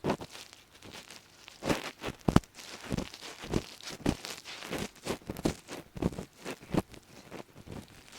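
Ear pick scraping and rustling close up inside a microphone's ear, in short irregular scratchy strokes with dry crackles, like flaky earwax being worked loose.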